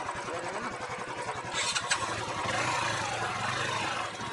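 Motorcycle engine running under way, its note growing louder about two seconds in, with a brief sharp noisy burst just before.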